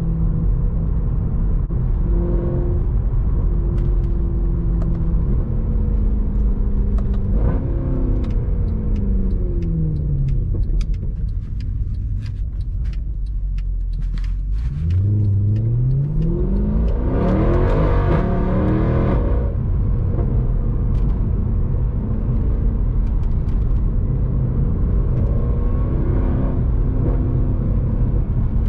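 Mercedes C63 AMG's 6.2-litre V8 on the move: a steady cruise, then revs falling off the throttle with scattered sharp crackles, then about halfway a hard acceleration with the engine note rising steeply for about four seconds before settling back to a steady cruise.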